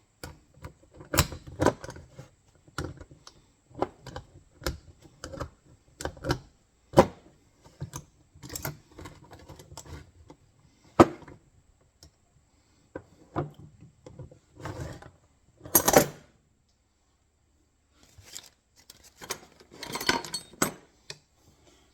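Steel trap parts clinking and clanking as the jaws, levers and springs of an MB-550 foothold trap are worked together by hand: many separate metal clicks and knocks with a short pause near the end.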